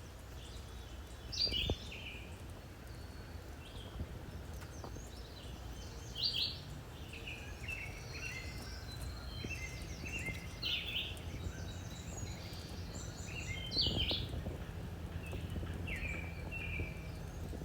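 Small birds chirping repeatedly in short high calls, over a low steady rumble from the ride, with a few light knocks.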